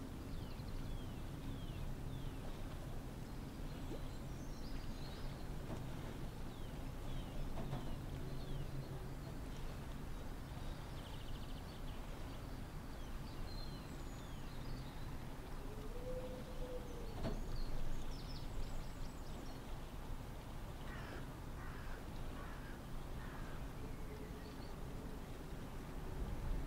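Birds chirping and calling outdoors: many short, high falling chirps throughout, with a cluster of harsher calls about twenty seconds in, over a steady low rumble of wind.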